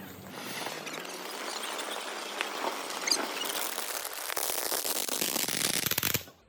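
Fireworks crackling under a steady hiss, the crackle growing denser over the last two seconds and then cutting off abruptly.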